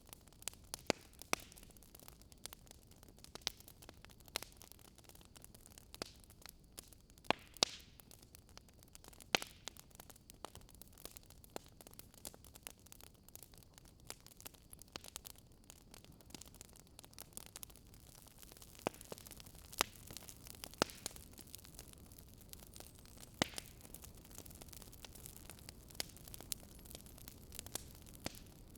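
Wood fire crackling: irregular sharp pops and snaps of burning logs, a few louder than the rest, over a soft steady hiss.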